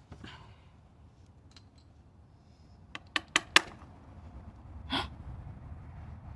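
Hands and tools working at a stuck part in a car engine during a spark plug and coil change: four sharp clicks in quick succession about three seconds in, the last the loudest, then a short rasping sound near five seconds.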